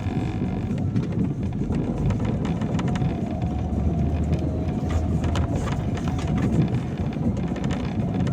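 Steady low rumble of a car driving on a wet road, heard from inside the cabin, with scattered light ticks over it.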